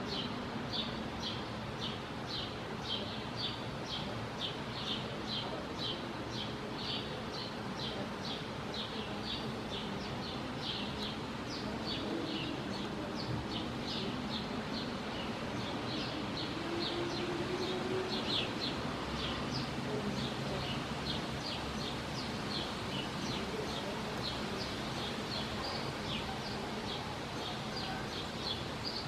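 A bird chirping over and over, two or three short chirps a second, with a low hum underneath.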